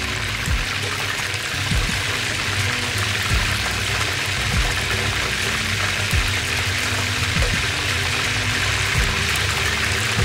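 Chicken pieces deep-frying in hot oil in a wok: a steady sizzle. Soft background music plays underneath.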